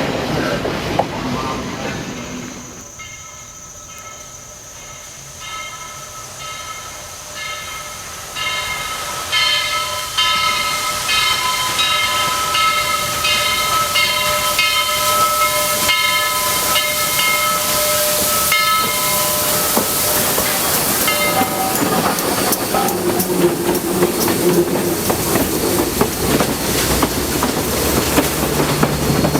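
Steam train sounds. After a brief stretch of train noise and a cut, a steady ringing tone pulses for most of the first two-thirds, typical of a locomotive bell, while hiss and running noise from a Southern Railway 2-8-2 steam locomotive build up. The ringing stops about 21 seconds in, leaving steady steam hiss and rumbling train noise.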